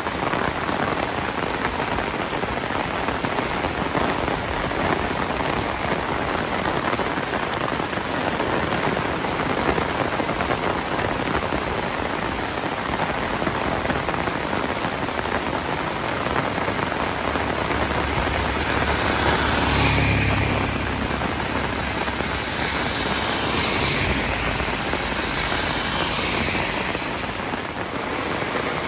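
Heavy rain falling steadily. A low rumble swells and fades about twenty seconds in.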